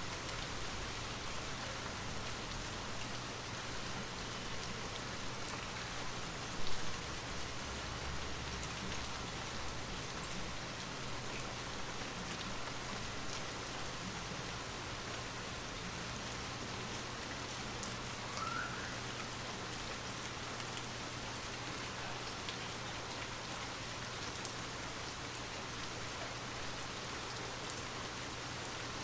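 Steady rain falling, an even continuous patter, with one brief louder knock about seven seconds in.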